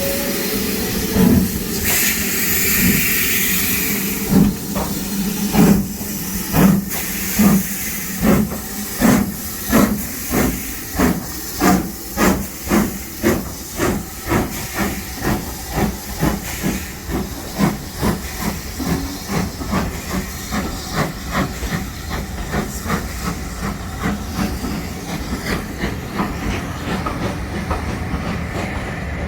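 Steam locomotive pulling out of the station: a burst of steam hiss about two seconds in, then exhaust chuffs that speed up from about one a second to two or three a second and grow fainter toward the end.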